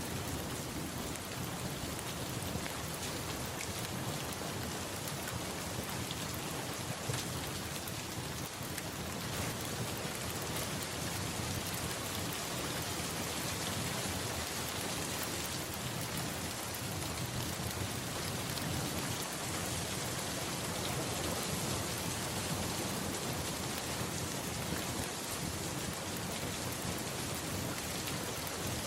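Steady, even rainfall with a low rumble of thunder running underneath.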